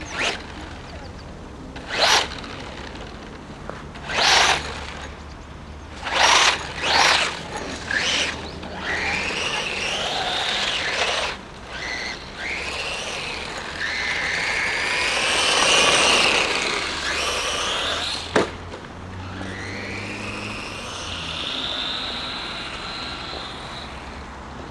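HSP 1/10-scale RC monster truck driving: several short, sharp bursts, then its motor whines, rising and falling in pitch as the throttle is worked, with one sharp crack about two thirds of the way through.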